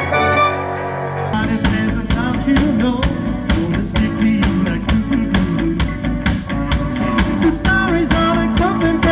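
Rock band playing live: held keyboard chords, then about a second in the drums and electric guitar come in with a steady beat.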